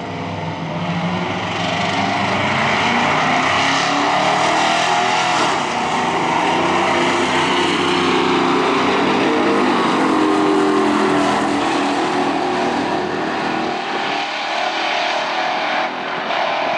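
Two pickup trucks making a drag-strip pass, their engines running hard at wide-open throttle with the pitch shifting through the gears. The deep engine sound thins out near the end as they run away down the track.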